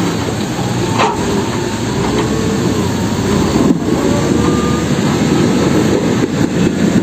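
Heavy truck's engine running as it drives, with a faint whine that slowly rises and wavers in pitch. A single knock about a second in.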